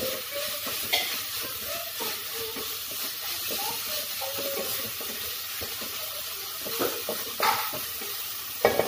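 Onion-tomato masala with ginger-garlic paste sizzling in oil in an aluminium pot, stirred and scraped with a wooden spatula, with a few sharp knocks of the spatula against the pot. The paste is being fried on medium flame to cook off its raw smell.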